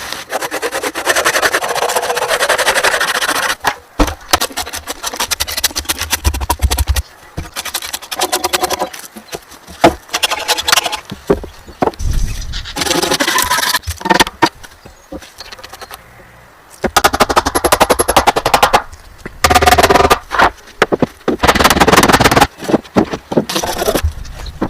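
Wood being worked: rapid runs of sharp knocks, cracks and crackles in irregular bursts, with short quieter gaps between them.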